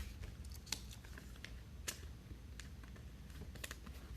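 Trading cards being handled on a table: faint scattered clicks and taps as cards are flipped and sorted.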